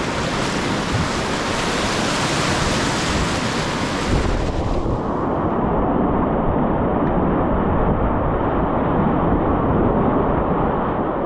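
Rushing whitewater of river rapids, a steady loud wash that turns muffled about four and a half seconds in as its hiss drops away.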